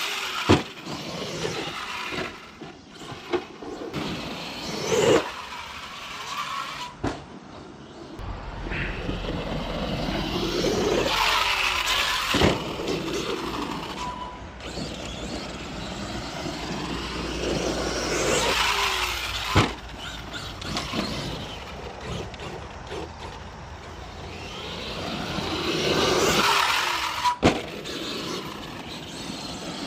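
Arrma Outcast 8S 1/5-scale electric RC stunt truck driving hard, its motor whining up and down in pitch as it accelerates, brakes and passes by. Several sharp knocks stand out among the whining, the loudest about a third and two-thirds of the way through and again near the end.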